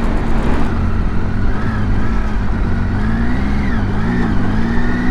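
Triumph Tiger 800's three-cylinder engine running at a steady cruise while riding, under heavy wind rush on the microphone; the engine note wavers up and down a little from about three seconds in as the throttle changes.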